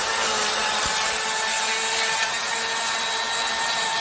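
Chainsaw running steadily under load, cutting the felling notch into an oak trunk.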